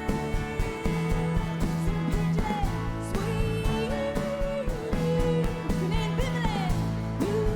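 Live band playing a country-tinged rock song, with a steady drum beat under a held, gliding melody line.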